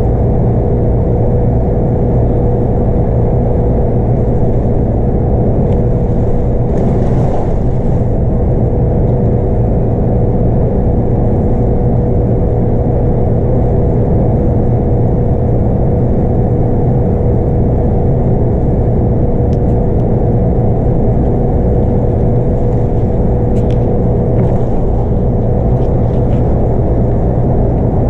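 Scania K230UB bus running at a steady speed, heard on board: the low rumble of its 8.9-litre five-cylinder Scania DC9 diesel with road noise, and a steady whine over it.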